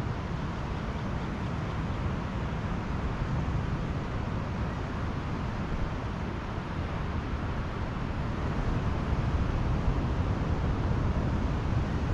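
Pacific Ocean surf breaking and washing on a beach, a steady noise that grows a little louder near the end.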